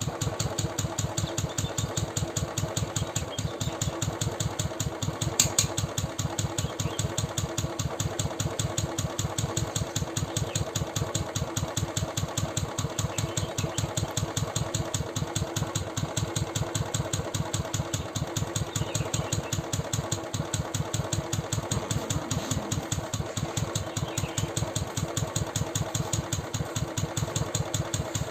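Royal Enfield BSIV single-cylinder engine idling with an even, steady beat, with one sharp click about five seconds in. The owner describes the ticking that comes in between the beats as 'tik tik tik' and suspects a loose decompressor.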